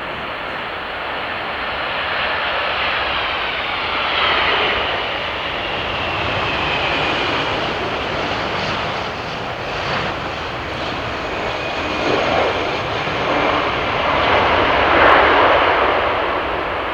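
Boeing 747-400 jet engines running, a loud steady rush with a whine that falls slowly in pitch, swelling louder a couple of times and most strongly near the end.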